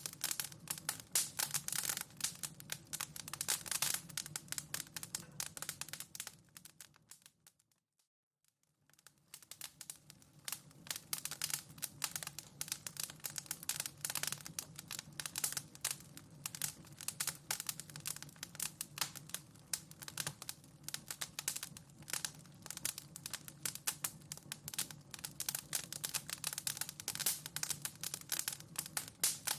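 Wood fire in a fireplace crackling: dense, irregular pops and snaps over a low steady hum of the flames. About a quarter of the way in it fades almost to silence for a second or two, then the crackling comes back.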